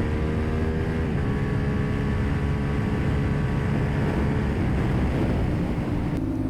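Motorcycle engine running under way with wind rush. Its note climbs slowly and drops about a second in, as on an upshift. Near the end a click is followed by a steady, even note.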